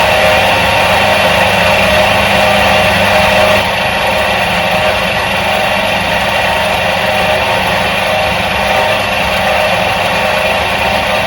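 Electric motor of a 1977 Soviet washing machine running steadily: a continuous mechanical hum with several steady tones, dropping slightly in level about three and a half seconds in.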